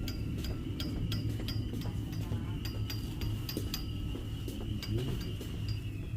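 Glass marbles clicking against each other in a loose rhythm, about two or three clinks a second, each with a short bright ring. Under them a subway train runs with a steady low rumble and a thin whine.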